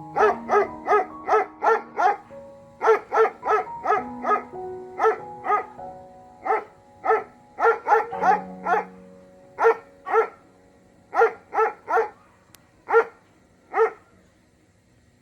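A dog barking repeatedly in quick runs of two or three barks a second, over music with long held notes. The barking thins out and stops shortly before the end.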